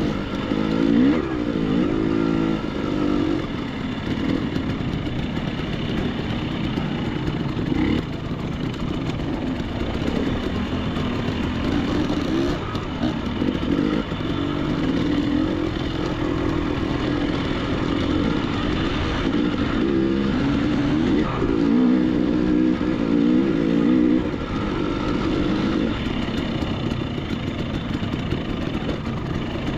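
Dirt bike engine running under changing throttle while riding over slick rock, its pitch rising and falling again and again, with the clearest run-ups about a second in and around twenty seconds in.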